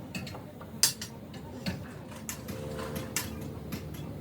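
Metal tools and steering-box parts clinking and clicking against each other as the box is worked on, in irregular sharp knocks about once or twice a second, with a short faint ring a little past halfway.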